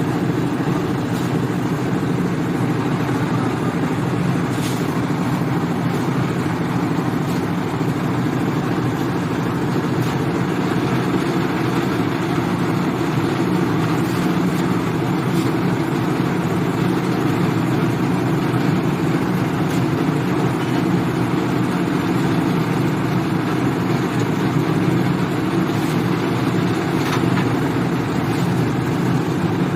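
Concrete mixer running steadily with a constant mechanical drone, and a few faint clicks or knocks now and then.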